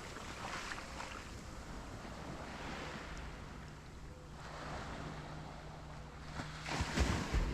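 Small Caribbean waves washing and receding on a sandy shore, with a steady low hum joining in about two seconds in. Near the end comes a brief burst of loud low thumps.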